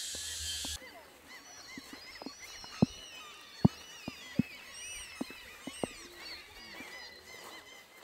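Birds chirping and twittering, with sharp irregular knocks scattered through it. A steady hiss cuts off suddenly about a second in.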